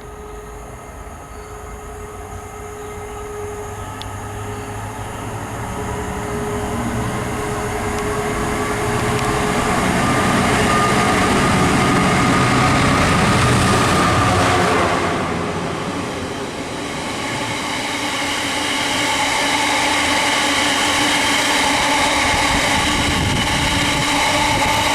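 A train approaches, growing louder over about ten seconds, and passes with its pitch dropping about fifteen seconds in. Train noise with steady high tones builds again near the end.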